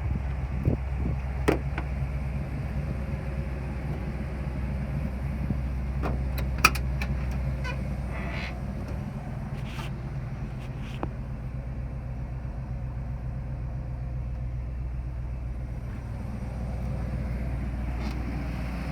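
1992 Ford dump truck's engine idling steadily, with a few light clicks and knocks over it.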